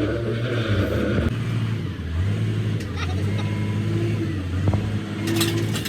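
A large engine running steadily. Its speed drops about a second in and settles again at a slightly different pitch, with a few light metallic clicks.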